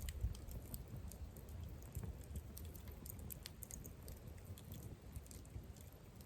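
Campfire crackling faintly: scattered small ticks and pops from the burning wood over a low rumble.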